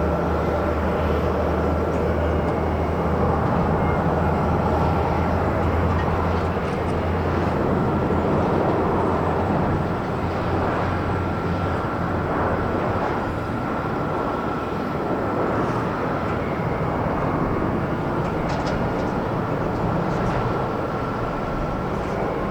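Jet engine noise from a landing JAL Boeing 767-300ER: a steady, loud rumble with a thin high whine running through it, loudest in the first half and easing slightly after.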